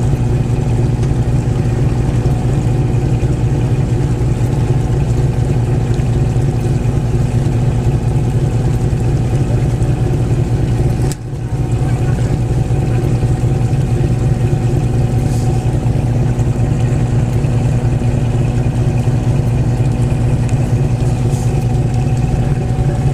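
Sightseeing boat's diesel engine running steadily with a deep, even hum, the level dipping briefly about eleven seconds in.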